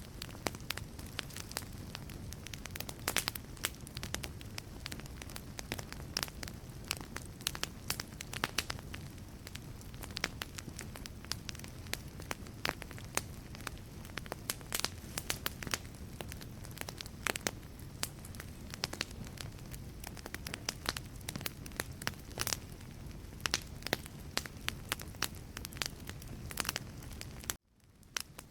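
Wood fire crackling in a fireplace: a steady stream of sharp pops and snaps over a low rumble of flames. Near the end it cuts out abruptly to near silence for about a second, then resumes.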